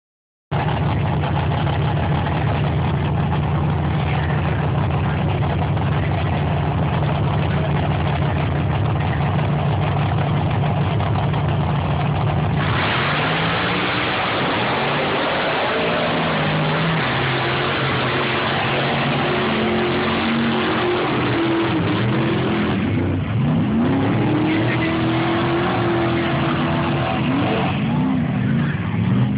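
Truck engine running loud and steady, then, after a sudden change about 12 seconds in, revving with its pitch climbing and dropping again and again as the truck is driven hard, with a sharp drop and climb near the end.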